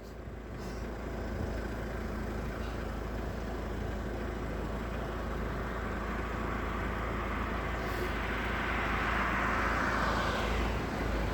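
Road traffic passing, a steady rushing of tyres and engines with one vehicle swelling to its loudest about nine to ten seconds in, then easing off.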